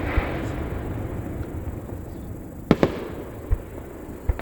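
Fireworks bursting overhead: the rumble of earlier bursts dies away, then two sharp bangs come close together just past the middle, with a few softer thumps.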